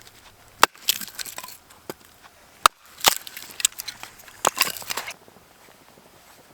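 Firewood being chopped or broken: sharp knocks, each followed by a splintering crackle, several times over, stopping about five seconds in.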